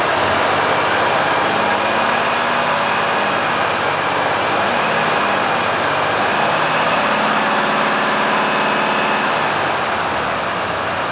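Renault T480 truck's six-cylinder Euro 6 diesel running at a steady idle after a start.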